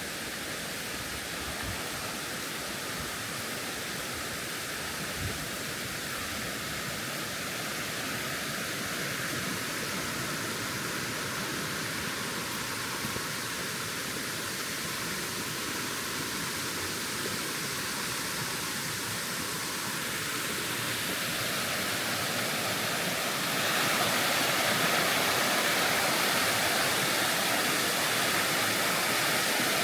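Rushing water, a steady hiss that steps up louder about three-quarters of the way through.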